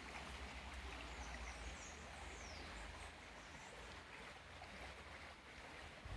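Faint, steady rush of a waterfall, with a few faint high bird chirps between about one and three seconds in.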